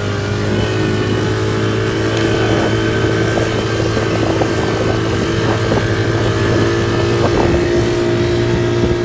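Quad bike engine running at steady revs, holding an even pitch.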